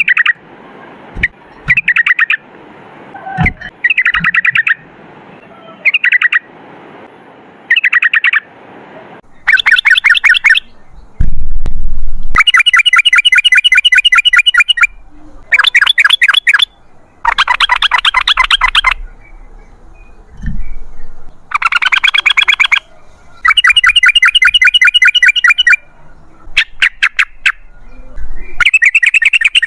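Yellow-vented bulbul (trucukan) singing its rapid chattering 'ropel' song in repeated bursts of quick notes. The bursts are short at first, then longer and louder from about nine seconds in, with a brief low thump near the middle.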